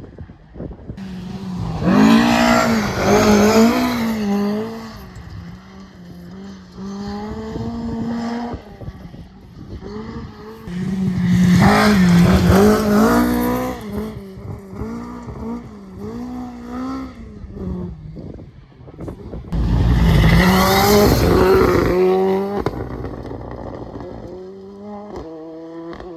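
Rally car engines revving hard and lifting off through corners on a forest stage, getting loud three times, with quieter, fading engine sound between.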